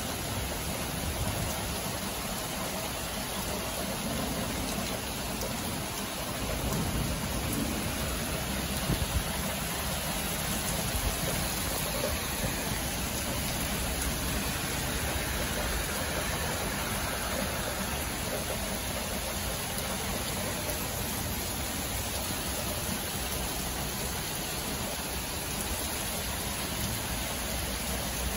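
Steady rain falling, with a few brief louder taps about nine seconds in.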